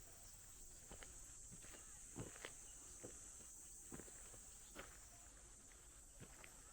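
Faint, irregular footsteps on the ground, roughly one a second, over a steady high-pitched hum of insects.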